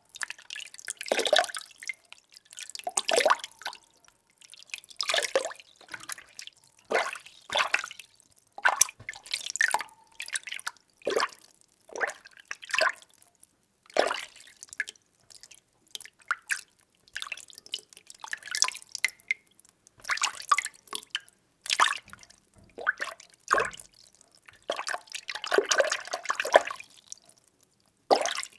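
Water being stirred by hand, sloshing and splashing in separate irregular swishes about every one to two seconds, with short pauses between.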